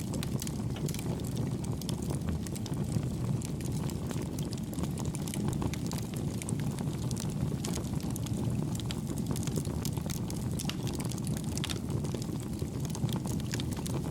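Wood campfire burning, with a steady low rush of flame and many small crackles and pops throughout; the crackling stays soft and even.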